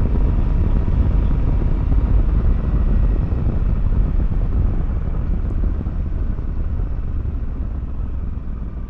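Motorcycle on the move: a dense low rumble of engine, wind and road noise, steady at first and growing quieter over the last few seconds.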